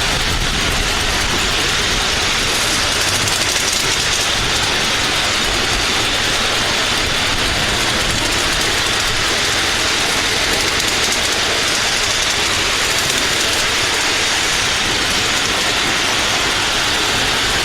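Model railway train running steadily along the track, a constant dense rush of wheel-on-rail running noise with fine clatter.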